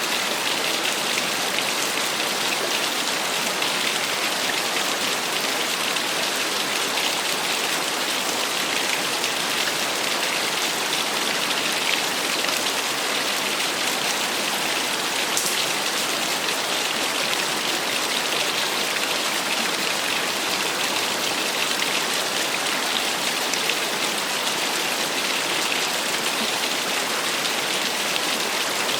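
Small waterfall: water splashing and running steadily in an even, bright hiss, with little low rumble.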